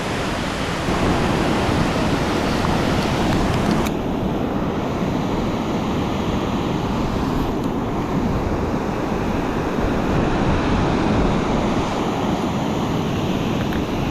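Steady rush of fast-flowing creek water below a dam, mixed with wind buffeting the microphone.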